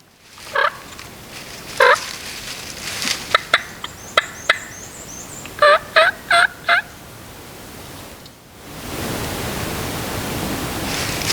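Wild turkey gobbling: separate calls about half a second and two seconds in, then a quick run of four notes about six seconds in, with a few sharp clicks in between. A steady rustling noise takes over from about nine seconds.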